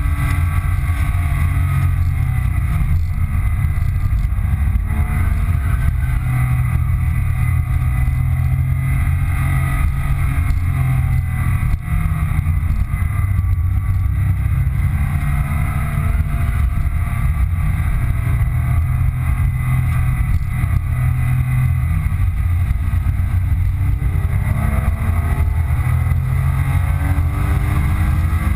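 2005 Porsche 997 Carrera 2's flat-six engine on track, heard inside the cabin, its pitch rising and falling again and again as the car accelerates and lifts through the corners.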